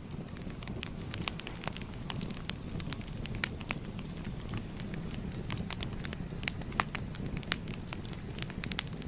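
Wood fire crackling: a steady low rumble of flame with many irregular sharp pops and snaps.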